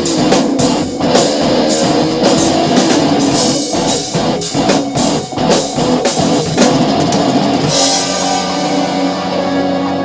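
Rock drum kit played hard along with a distorted-guitar rock track. The kit is a Sonor drum set with Paiste cymbals. About 8 seconds in the drumming drops away, leaving sustained guitar chords ringing.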